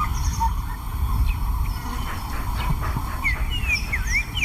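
Low, rough animal sounds with an uneven rumble, and a few short, quick high chirps near the end.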